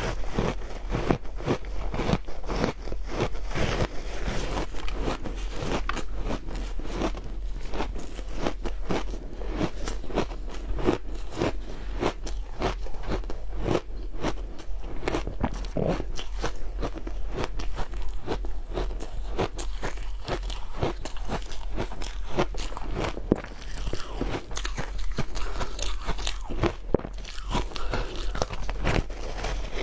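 Powdery snowball ice being bitten and chewed close to the microphone: a rapid, continuous crunching and crackling.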